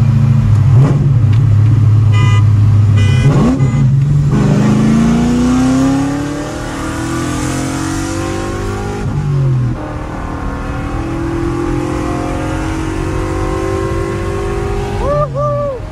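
1998 C5 Corvette's LS1 V8, straight-piped through long-tube headers, a catless X-pipe and a muffler delete, heard from inside the cabin and pulling hard. The exhaust note holds steady and loud at first, then climbs in pitch as the engine revs up, breaks at a gear change about nine seconds in, and climbs again.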